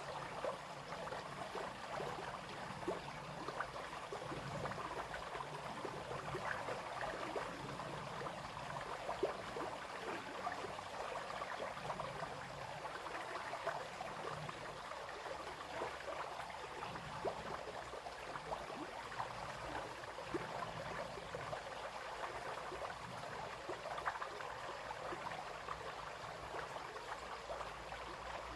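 Small brook running over stones, a steady babbling and splashing with many small bright drips and trickles.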